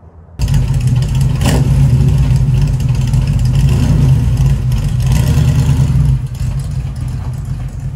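Small-block Chevy 350 V8 of a 1936 Chevrolet coupe, breathing through a custom exhaust with mid mufflers, running loudly as the car pulls out and drives off. It comes in suddenly about half a second in and drops off about six seconds in as the car moves away.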